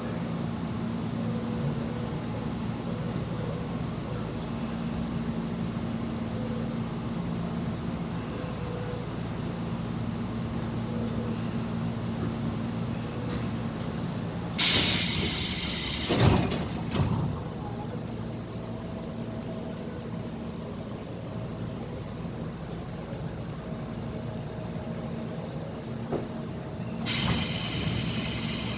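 Steady hum inside a Tobu 10050 series electric train car, with two loud bursts of compressed-air hiss from the train's pneumatic equipment, one about halfway through followed by a couple of thumps and another near the end.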